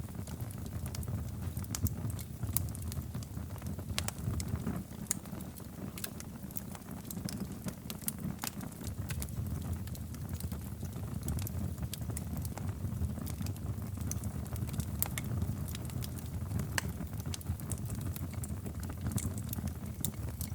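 Wood fire burning in a fireplace, crackling with frequent irregular pops and snaps over a steady low rumble.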